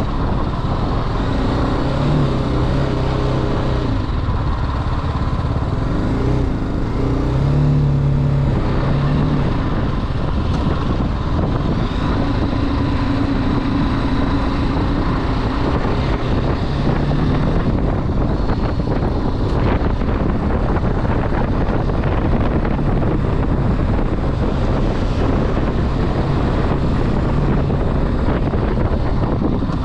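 Motorcycle engine running under way, with wind rushing over the microphone. The engine note rises and falls several times, most clearly around two, seven to nine and twelve to fourteen seconds in.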